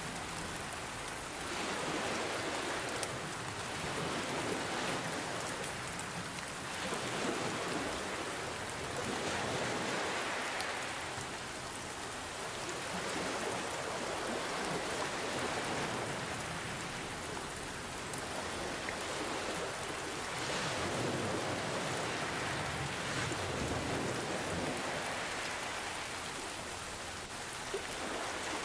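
Steady rainfall blended with ocean waves, the sound swelling and easing every few seconds as waves wash in.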